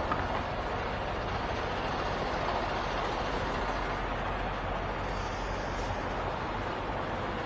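Steady running noise of idling semi-truck diesel engines.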